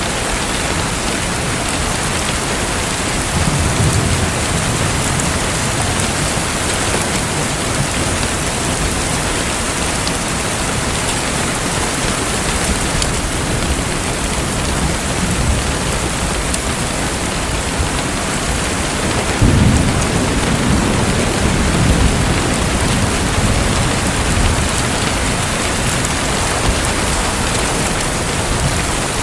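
Steady hiss of falling water, with two low rolling rumbles, one about four seconds in and a longer one from about twenty seconds in.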